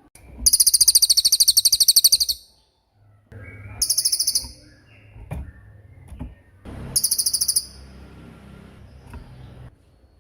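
A small songbird sings three very high, rapid, buzzy trills: a long one of about two seconds near the start, then two shorter ones a few seconds apart, with faint chirps between them.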